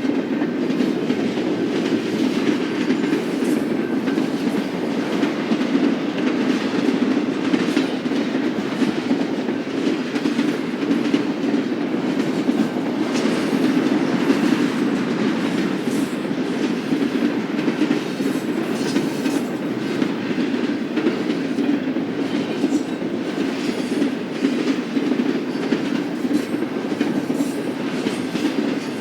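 Cars of a BNSF freight train rolling past: a steady rumble of steel wheels on rail, with light clicking over the rail joints.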